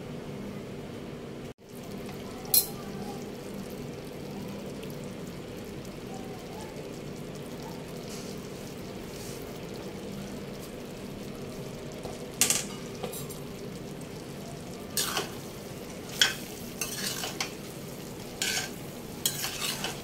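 Chilli chicken in its sauce sizzling in a steel pan with a steady hiss. In the second half a spoon clinks and scrapes against the pan several times as the dish is stirred.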